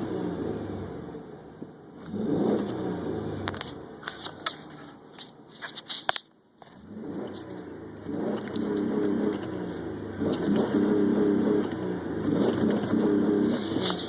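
Car engine revved hard in repeated bursts, its pitch climbing and falling with each blip, with crackles and clicks between revs in the middle and a brief cut to near silence around six and a half seconds in.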